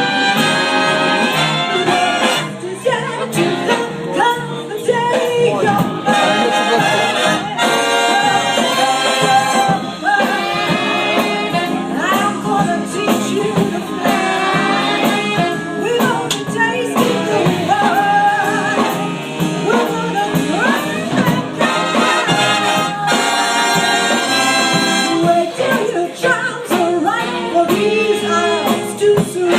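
Live big band playing an instrumental jazz passage between vocal lines, with brass, trumpets and trombones to the fore.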